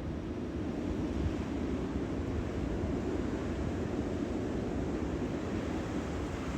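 Wind blowing hard and buffeting the microphone: a steady rushing noise, heaviest in the low end, with a slight gust about a second in.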